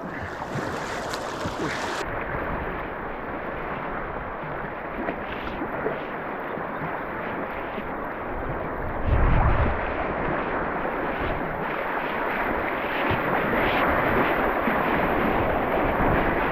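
Fast-flowing river current rushing steadily around the kayaks, growing louder about nine seconds in, where wind briefly buffets the microphone with a low rumble.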